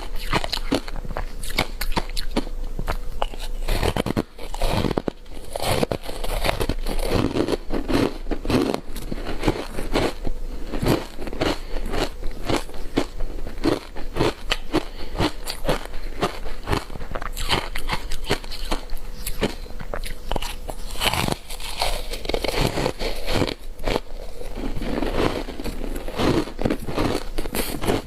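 Close-up crunching and chewing of ice coated in matcha powder: continuous dense cracking and crackling as the ice is bitten and ground between the teeth.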